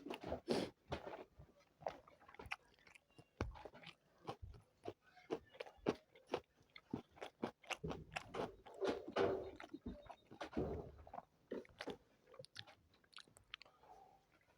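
Close-miked eating: a person chewing and crunching mouthfuls of spicy chicken biryani, with many irregular sharp crunches and wet mouth clicks.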